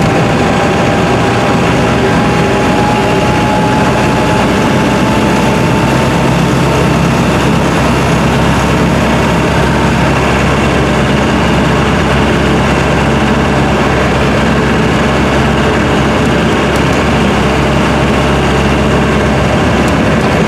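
Land Rover Series II engine and drivetrain running steadily on the move, heard from inside the cab as a loud, even low drone. A faint whine rises slowly during the first half.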